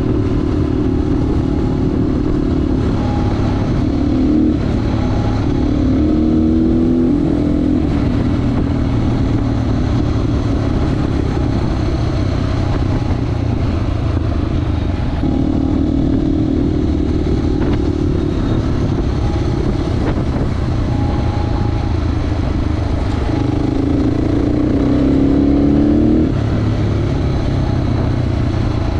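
Crossfire HJ250 motorcycle engine running loud through an exhaust with the dB killer removed, while riding. The engine note climbs in pitch twice as the bike accelerates, a few seconds in and again near the end, then settles back.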